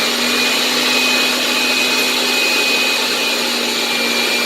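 Countertop blender running at a steady speed, its motor giving a constant hum and whine as it purées fresh pineapple chunks with rum.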